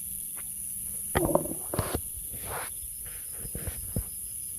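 A steady high-pitched drone of insects, crickets or cicadas, with a few irregular rustles and crunches in leaf litter, loudest a little over a second in.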